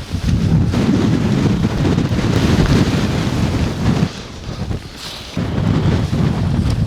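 Strong blizzard wind buffeting the microphone, a heavy low rumble that eases for about a second past the middle, then comes back as hard as before.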